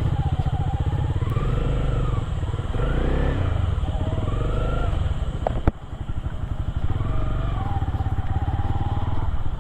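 Motorcycle engine running under way, its pitch rising and falling as the throttle is opened and eased off. A single sharp knock comes a little over five seconds in.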